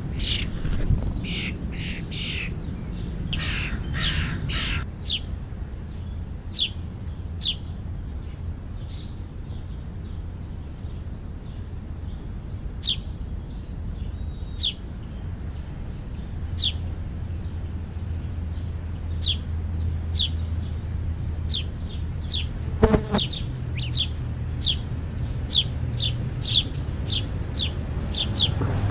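Birds calling around a feeding spot: a few harsh American crow caws in the first five seconds, then a long run of short, high, downward-sliding chirps that come faster in the second half. A low steady rumble runs underneath, and there is one sharp knock about 23 seconds in.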